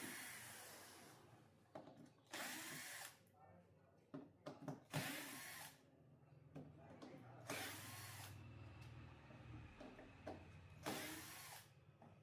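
A small handheld power tool, such as an electric screwdriver, run in short bursts of about a second, four times.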